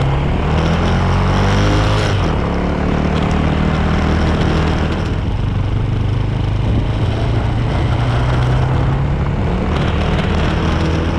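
Suzuki motorcycle engine pulling away under acceleration, rising in pitch over the first couple of seconds and then running at a steadier speed, with wind and road noise rushing over it.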